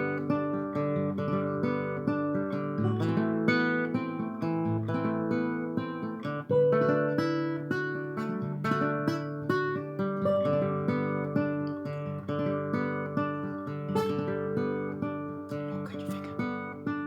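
Acoustic guitars playing an instrumental break: chords strummed in steady rhythm with a picked lead melody over them.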